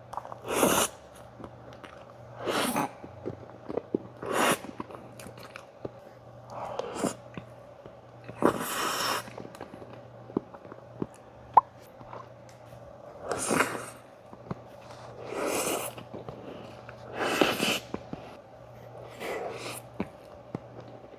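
Close-miked eating sounds of soft dessert, spoonable tiramisu and chocolate muffin: wet chewing and mouth noises in short bursts every couple of seconds, with a few sharp clicks between them.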